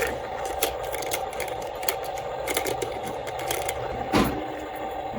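A steady machine-like hum with scattered light clicks, and one louder knock about four seconds in.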